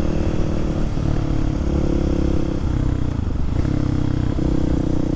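Kawasaki KLX300SM supermoto's single-cylinder four-stroke engine running on the move. Its engine speed steps up and down several times, with a brief dip a little past halfway.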